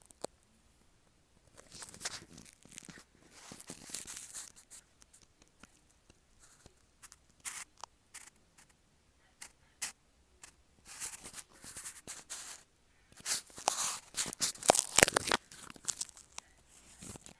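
Metal nib of a dip pen scratching across paper in short, separate strokes and quick ticks, with pauses between groups; the longest and loudest run of strokes comes about three quarters of the way through.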